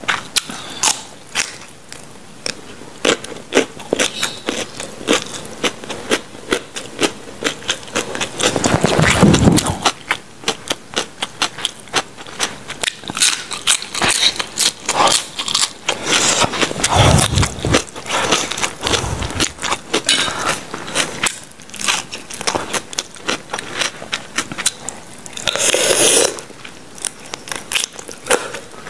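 Close-miked chewing and crunching of raw vegetables, a dense run of crisp clicks with a handful of louder swells around a third of the way in, past the middle and near the end.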